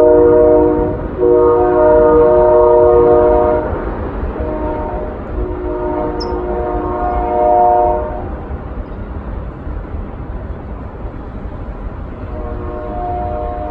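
Train horn sounding a chord of several notes in long blasts over a low rumble: a blast that breaks about a second in, resumes until nearly four seconds, sounds again from about five to eight seconds, and returns more faintly near the end. A single brief high chirp is heard around six seconds in.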